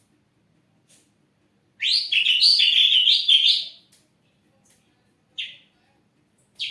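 Ashy drongo singing: a burst of about two seconds of rapid, varied chirping notes, then two short single calls a little over a second apart.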